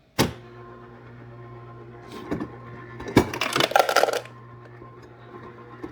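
A click, then the steady electric hum of a refrigerator, with a couple of knocks a few seconds in and a brief rattle of ice or plastic parts about three and a half seconds in.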